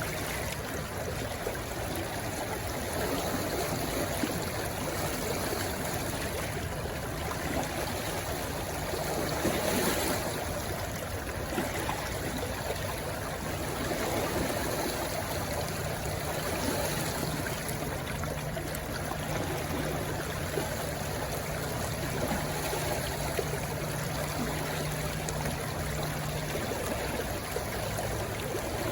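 A rushing stream flowing steadily, with trickling and gurgling water.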